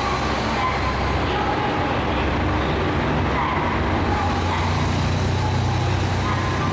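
Diesel railcar engine running steadily with a constant low hum.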